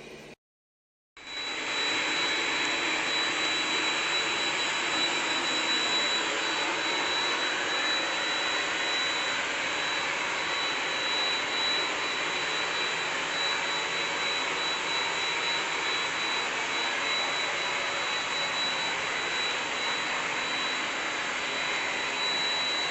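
Ecovacs Deebot X9 Pro robot vacuum running its suction: a loud, steady rush of air with a constant high whine. It starts about a second in.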